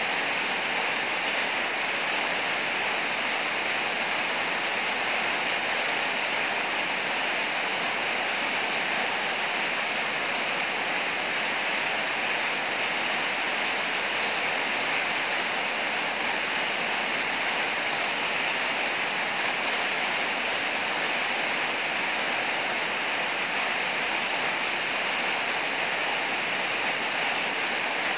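Heavy rain falling: a dense, steady hiss with no thunder and no change in strength.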